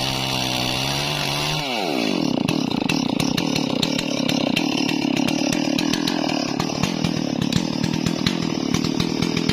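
Stihl MS440 two-stroke chainsaw running at high revs, its pitch dropping sharply about two seconds in as the chain bites into the wood and the engine takes the load. It then cuts steadily, with a rough, crackling sound of chain and chips.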